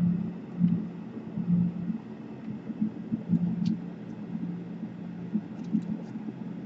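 Steady low hum with uneven swells and a few faint light clicks as a laptop keyboard is handled and fitted into its bay.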